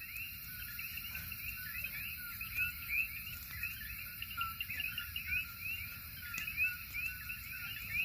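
Night chorus of many coquí frogs calling over one another, each a short low note followed by a quick rising chirp, with a steady high-pitched insect hum behind them.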